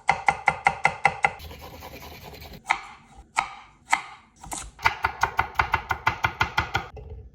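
Knife chopping vegetables on a cutting board. There is a quick run of even strokes, about six a second, at the start, then a few single cuts, then a longer fast run in the second half.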